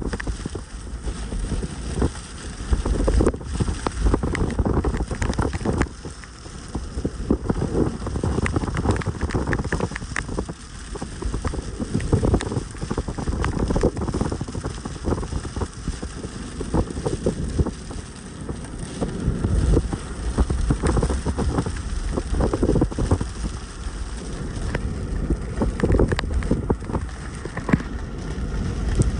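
Rain falling, with many small crackling drop hits, while gusts of wind buffet the microphone in an uneven low rumble.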